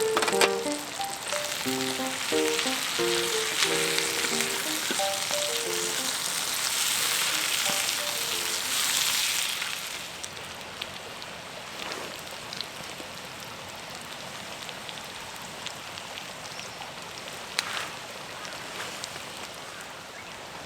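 Food sizzling in a hot pan, a dense hiss with scattered pops. About ten seconds in, the sizzle drops to a quieter hiss. Light background music with short plucked notes plays over the first half.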